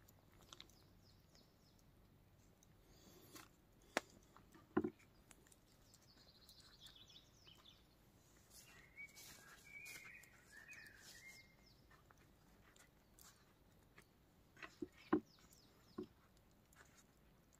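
Faint bird calls: a short run of falling chirps about six seconds in, then a cluster of chirps a few seconds later. A few sharp knocks and clicks stand out around four to five seconds in and again near fifteen seconds.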